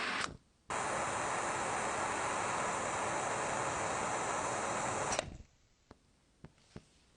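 Steady loud hiss that stops briefly just after the start, resumes, then cuts off about five seconds in, followed by a few faint light ticks.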